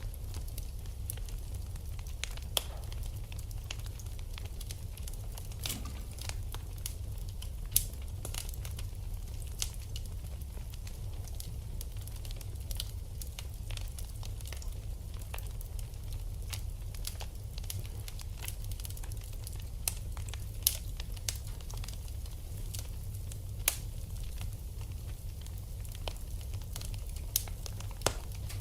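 Wood fire burning in a fireplace: steady crackling with scattered sharp pops over a low rumble.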